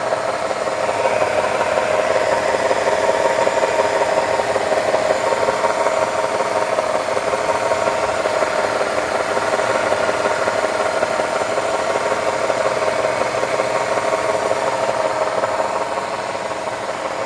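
A 2006 Nissan Tiida's CVT giving a steady growling whine, with the HR15 engine idling in Drive and the front wheels turning. The tone easing slightly near the end. The growl stays the same when either wheel is stopped and the gearbox casing vibrates, which the mechanic takes for internal CVT damage rather than a hub bearing.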